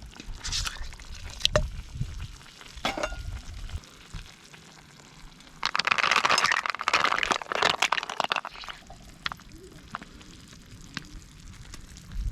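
Food frying in a hot pan: a few knocks of a utensil against the pan, then a loud burst of sizzling from about halfway in that lasts about three seconds before dying back to light crackles.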